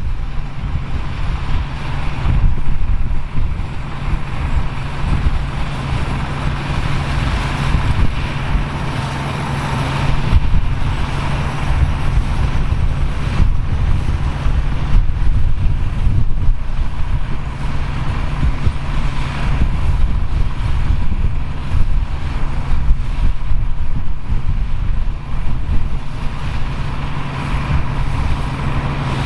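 Engine of vintage farm machinery running steadily with a constant low drone, with wind buffeting the microphone and the level swelling and easing.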